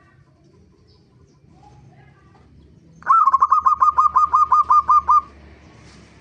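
Zebra dove (perkutut) calling: a rapid run of about a dozen short, loud cooing notes starting about three seconds in and lasting about two seconds.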